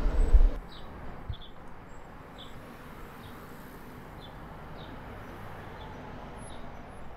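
Quiet outdoor ambience: a small bird gives short, high chirps about once a second over a soft steady hiss. A brief low rumble at the very start cuts off sharply.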